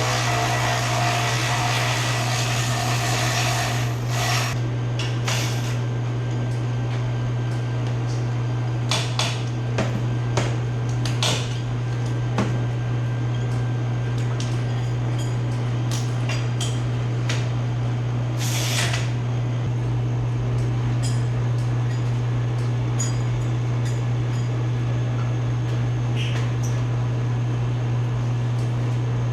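A steady low hum runs throughout, with scattered clinks and knocks of hand tools on metal.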